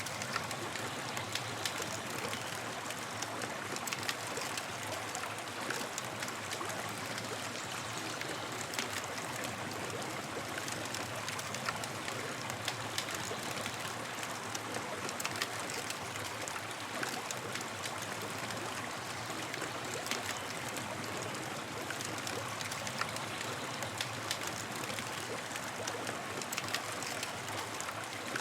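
Campfire crackling: a steady hiss of burning wood with frequent small sharp pops and snaps.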